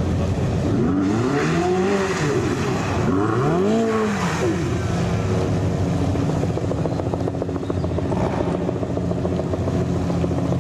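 Ferrari supercar engine revved twice, each rev rising and falling back in pitch over about a second, then engines running steadily at low revs.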